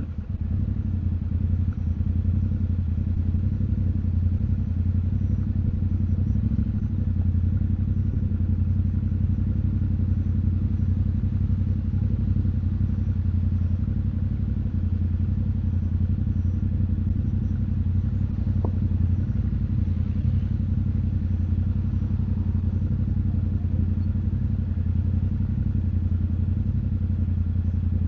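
Yamaha Ténéré 700's parallel-twin engine running at a steady, low engine speed, its pitch holding even without revving.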